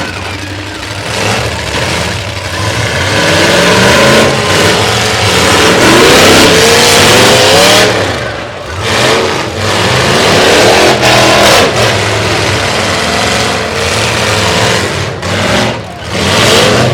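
Several derby trucks' engines revving hard and dropping back, pitch rising and falling, with a few sharp bangs, likely trucks colliding, partway through and near the end.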